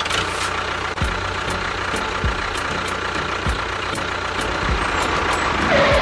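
Small engine of a DIY mini tractor running steadily, with a few low thumps.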